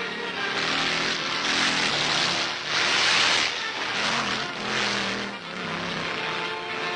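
Several motorcycle engines running as riders go past. The noise swells and fades about three times.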